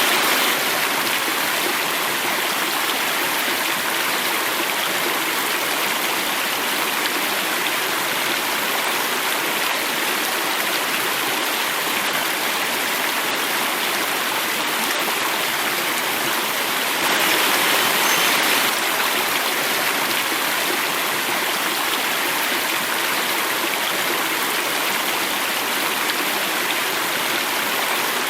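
Water running and falling in a stream or small cascade: a steady rushing splash, briefly louder for a second or two just past the middle.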